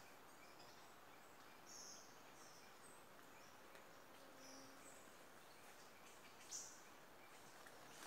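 Near silence: faint forest ambience with a few short, high bird chirps scattered through it, the clearest late on.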